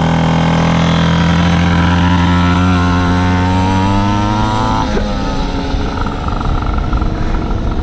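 Pocket bike's small gas engine at full throttle in a drag race, its pitch climbing slowly for about five seconds. Then the throttle comes off and the pitch falls away.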